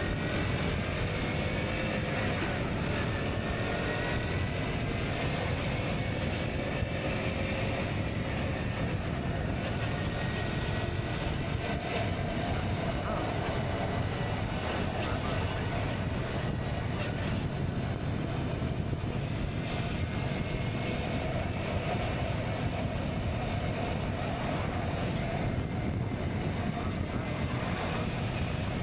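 KTM Duke 125's single-cylinder engine running through an Akrapovic exhaust while riding. Its note rises in the first few seconds, then holds at a steady cruise.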